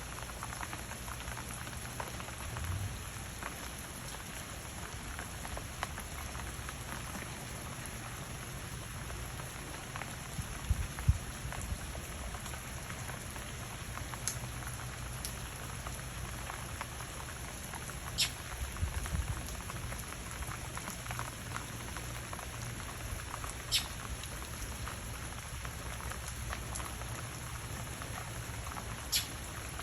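Steady rain falling, with occasional sharp drips. A couple of low thumps, about 11 and 19 seconds in, are the loudest moments.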